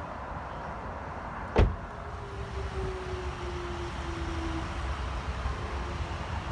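Steady rumble and hiss of a car driving, with one sharp thump about a second and a half in and a faint hum that drifts slightly lower in pitch after it.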